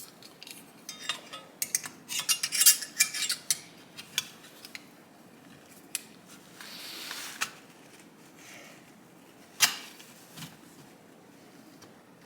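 Small metal tools and parts being handled on a workbench: a flurry of rapid metallic clinks and clicks from about a second in, a short soft scrape or hiss around seven seconds, and one sharp click near ten seconds.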